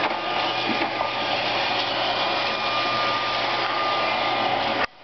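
Roomba robot vacuum running: a steady motor and brush whir with a faint high whine. It cuts out abruptly near the end.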